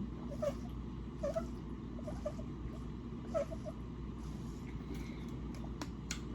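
A person gulping water in a series of swallows about a second apart, each a short squeaky blip, over a steady low hum.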